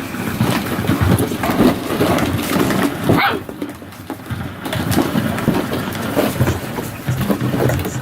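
Anglo Wulfdog puppies whimpering and yelping, with one sharp rising yelp about three seconds in, over a steady low rumble.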